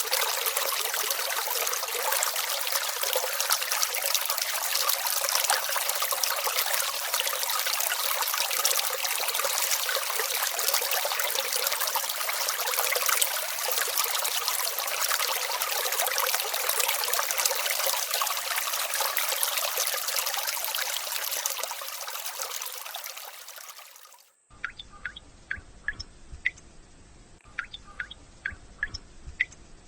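Small brook trickling and splashing steadily, fading out near the end, then water drops falling one at a time with clear, irregular plinks.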